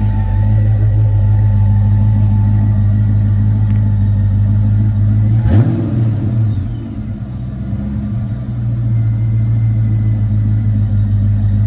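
1993 Ford Mustang SVT Cobra's 5.0-litre V8 idling steadily, with one quick throttle blip about halfway through: the revs jump up and fall straight back, dip briefly, then settle to idle again.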